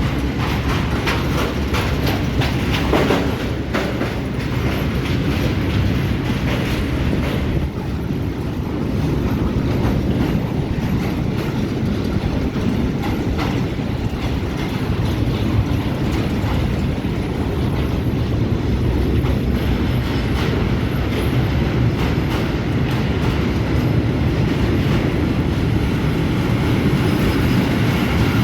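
Train moving along the track: a steady low rumble of the wagons with the wheels clicking over rail joints, the clicks thickest in the first few seconds.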